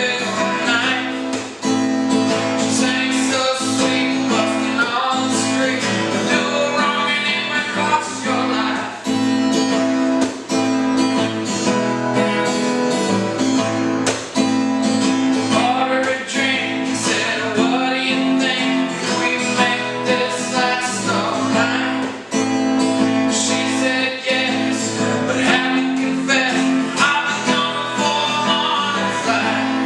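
Acoustic guitar being strummed, playing a song.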